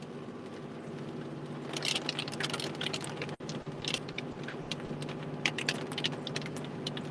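Irregular sharp ticks of rain striking the outside of a moving vehicle, thickening from about two seconds in, over a steady hum inside the vehicle.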